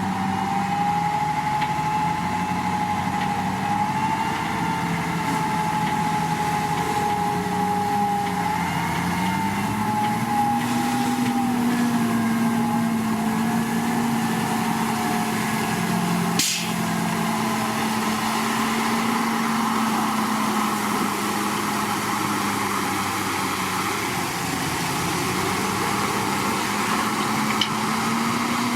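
Heavy diesel engine of a Komatsu D61PX bulldozer running steadily while working, its pitch rising and falling slightly with load. A single sharp knock about halfway through.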